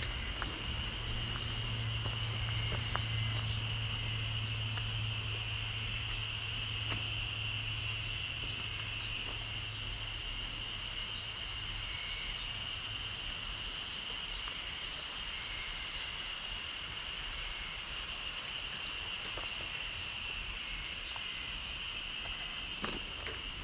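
Steady, high-pitched chorus of insects with no break. A low steady hum underneath fades out about ten seconds in.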